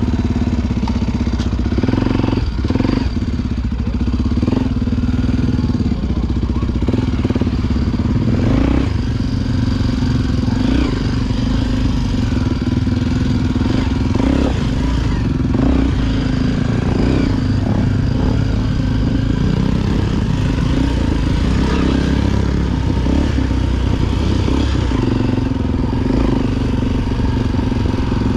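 Honda XR Tornado 293 single-cylinder four-stroke dirt bike engine running steadily while riding an off-road trail, with scattered knocks and rattles as the bike goes over rough ground.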